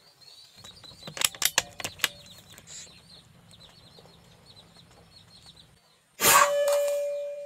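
A bird chirping in a quick run of short high notes, after a few sharp clicks. About six seconds in comes a loud metallic clang that rings on at one steady pitch, then slowly fades.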